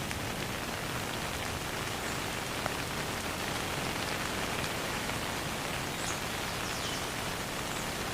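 Steady rain falling, an even hiss of many drops, with no thunder.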